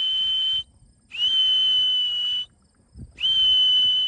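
A handheld whistle blown in long, steady, breathy blasts, three of them with short gaps between, calling returning racing pigeons down to the loft to trap.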